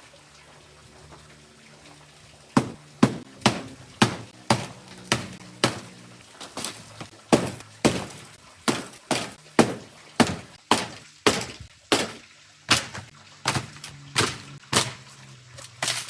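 A long run of sharp, regular strikes, about two a second, starting about two and a half seconds in.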